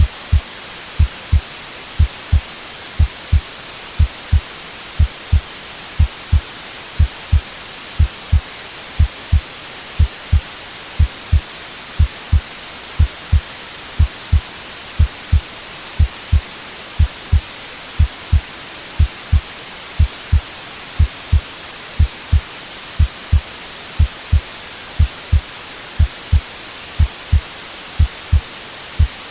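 A slow heartbeat, a double lub-dub thump about once a second, over steady white-noise hiss.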